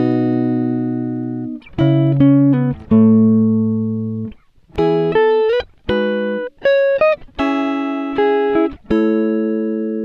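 Background music: plucked guitar chords, each struck and left to ring and fade, about every one to one and a half seconds.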